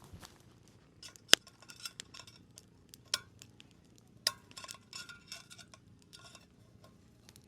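Utensils and cookware clinking and scraping: a run of sharp clicks and short metallic rings at uneven intervals, the loudest about a second in.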